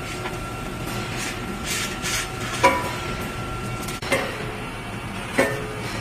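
Pneumatic steel mesh welding machine working: short hisses of air, then three sharp metallic clanks that ring briefly, about one and a half seconds apart, over steady machine noise.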